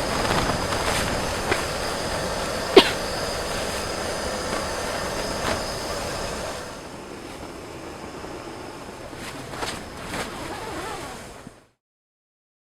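Steady rushing noise with a few sharp clicks, the loudest about three seconds in. It drops quieter a little past halfway and then cuts off abruptly near the end.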